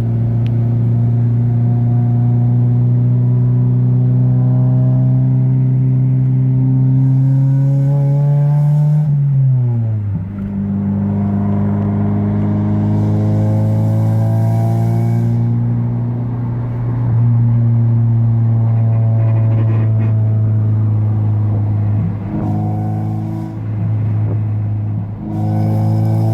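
Honda Del Sol's four-cylinder engine droning loudly through a cheap aftermarket eBay muffler while driving. The pitch climbs slowly, drops sharply about nine seconds in as the revs fall, then holds steady, with a few brief dips near the end. The owner says the muffler should not be this loud.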